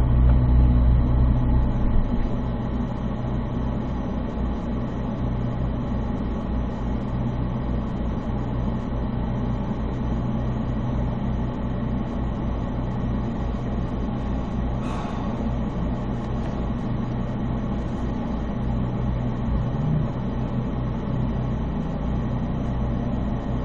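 Corvette V8 engine idling, a steady low drone that drops slightly in level about two seconds in.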